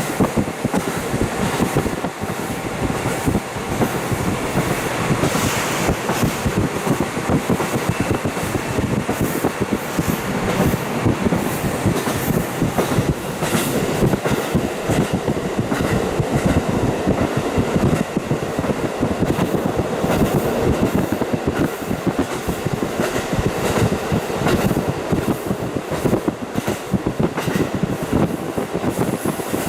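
KiHa 40 diesel railcar running along the line, heard through a fully open window: steady rolling noise of wheels on rail with many quick clicks, mixed with engine and rushing air.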